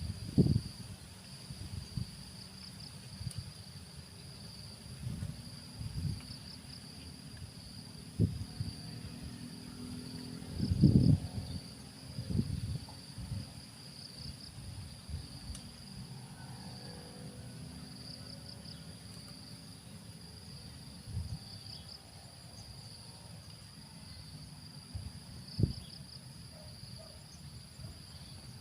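Steady insect chirring, high-pitched, with small groups of quick chirps every second or two, over a fainter higher hiss. Scattered low thumps break in now and then, the loudest about eleven seconds in.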